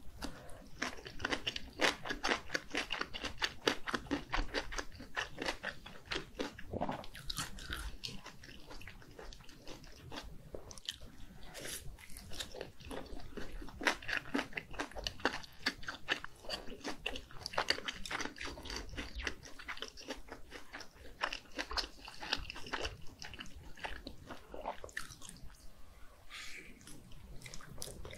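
Close-miked chewing of mini gimbap and spicy red fish cake: rapid, wet crunching and clicking from the mouth. It goes quieter for a few seconds near the end, then a new bite is taken from a skewer of fish cake.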